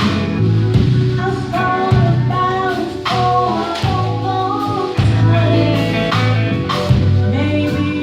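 Band playing a slow soul/R&B groove: bass and drum kit keep a steady beat under guitar, with a melodic lead line on top.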